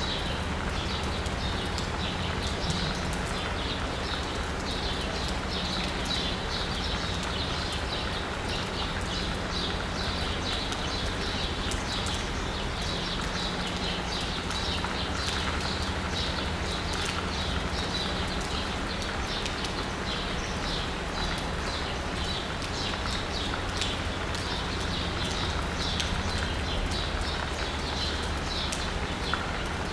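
Steady rain falling on asphalt and rooftops, with quick dripping taps of raindrops and birds chirping throughout, over a low steady hum.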